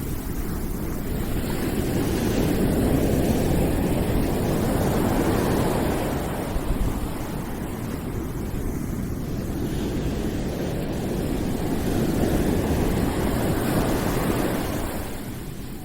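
Low, steady rushing noise ambience that swells and eases twice, in slow waves several seconds long.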